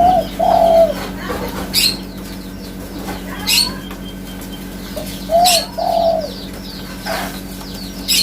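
Spotted dove (tekukur) cooing: a short coo and a longer one near the start, and the same pair again about five seconds in.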